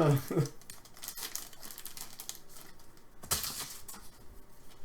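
Trading-card pack wrappers crinkling and cards being handled, light and irregular, with a sharper crackle a little over three seconds in.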